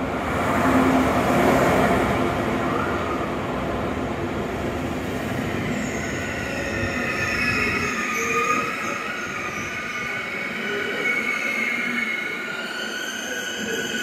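Deutsche Bahn ICE high-speed train running through the station with a loud rumble that peaks in the first two seconds and dies away around eight seconds in. From about six seconds in, a high, steady squeal of brakes and wheels rises as an ICE slows to a stop at the platform.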